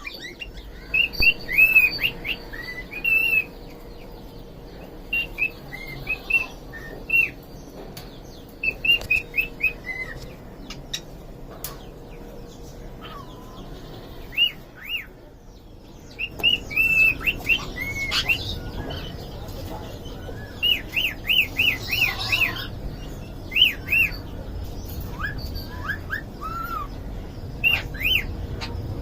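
Aviary of small pet birds chirping: many short, high chirps, some in quick runs, over a faint steady hum.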